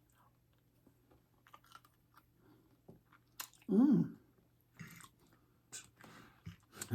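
Close-miked chewing of food, with scattered small crunches and mouth clicks, and a short voiced "mm"-like sound about four seconds in.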